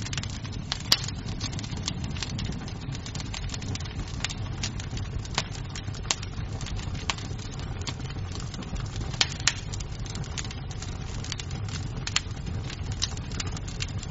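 Wood fire burning in a fireplace, crackling with irregular sharp pops over a low steady rumble. A few pops stand out louder: one about a second in and a pair about nine seconds in.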